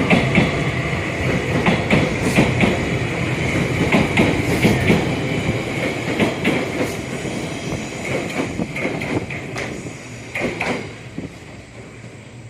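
JR Kyushu 885-series electric train running on the rails, its wheels clacking over rail joints over a steady rumble and whine. The sound fades and the clacks die away near the end.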